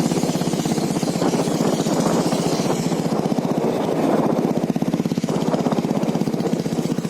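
Motorcycle engine running steadily, a fast even pulse that dips briefly about five seconds in.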